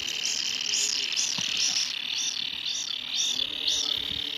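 Baby kingfishers calling: a continuous high, alarm-like buzzing with rising-and-falling notes repeated about twice a second, made in the throat.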